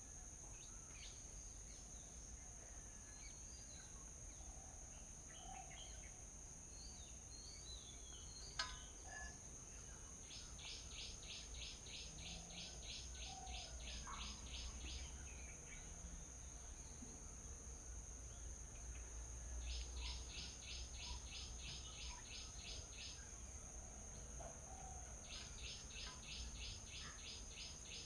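Outdoor birdsong soundscape: scattered bird chirps over a steady, high-pitched insect drone. Three runs of rapid, evenly spaced chirps, about three a second, each run lasting several seconds. One sharp click comes about eight seconds in, and there is a low rumble underneath.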